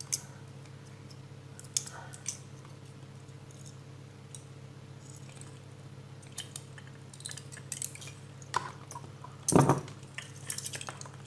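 Small hard parts of LED bulbs clicking and tapping as they are handled and set down on a table, with a louder clatter about nine and a half seconds in and a steady low hum underneath.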